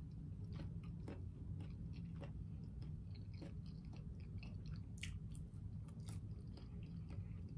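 Close-up chewing of a bacon sandwich and French fries: soft, wet mouth clicks and smacks a few times a second, the sharpest about five seconds in, over a steady low hum.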